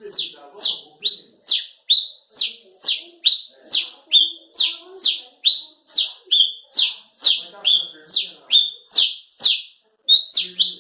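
A man imitating by mouth the call of the galo-da-serra (galinha-da-serra) bird. It is a fast, even run of high whistled calls, about two a second, each a short held note that drops into a falling whistle. The run breaks off briefly near the end, then resumes in a quicker burst.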